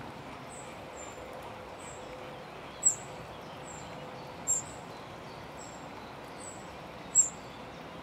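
A small bird's thin, very high call note repeats a little more than once a second, each note short and slightly falling. Three sharper, much louder clicking notes come among them, over a steady background hiss.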